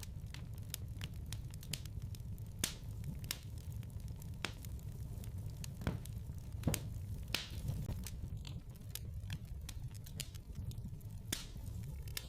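Wood fire burning in a fireplace: irregular sharp pops and crackles, some loud, over a steady low rumble of the flames.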